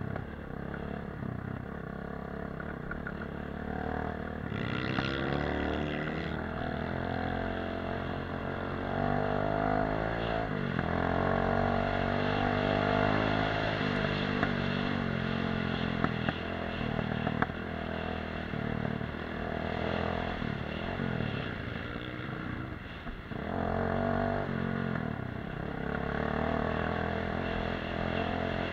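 Dirt bike engine running under changing throttle on an off-road ride, its pitch rising and falling again and again as the rider opens and closes the throttle, with occasional clatter.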